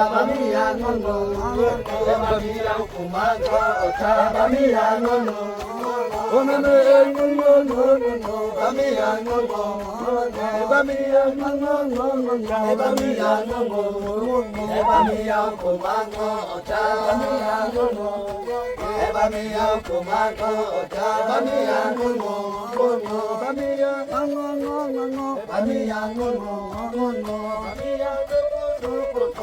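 Music with chanted singing: voices holding long, slowly bending notes over a steady low tone.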